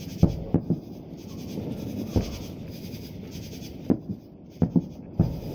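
Distant fireworks shells bursting: a string of sharp booms, several following close on one another, over a steady background hiss.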